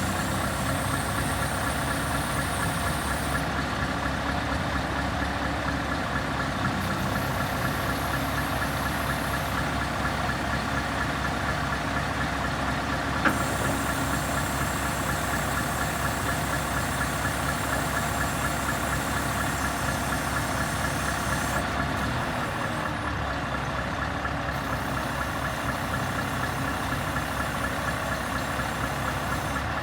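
Scania R580 truck's V8 diesel engine running steadily at idle, with a single sharp click about halfway through.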